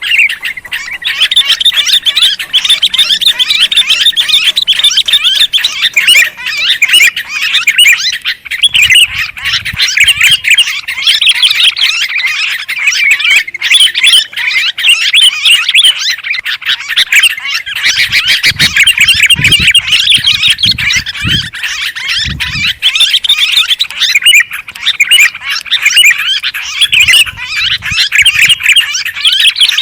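Sooty-headed bulbuls and yellow-vented bulbuls chattering noisily in a dense, unbroken stream of quick calls, the rowdy flock chorus used as a bird lure. A few low thumps sit under the calls.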